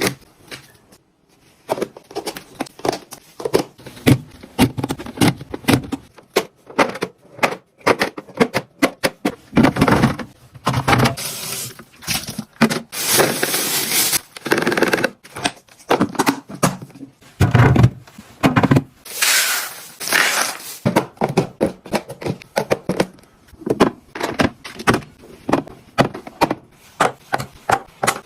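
Food packages and plastic storage containers being handled and packed into a fridge: a steady run of small clicks, knocks and taps, with a few longer stretches of rustling packaging.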